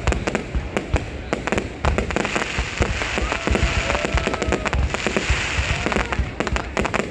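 Fireworks going off: rapid bangs and pops, with a dense hissing crackle about two to five seconds in.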